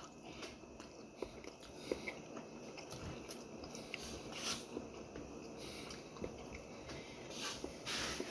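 Quiet chewing and mouth sounds of a person eating, with a few small clicks and short swishes, the loudest near the end.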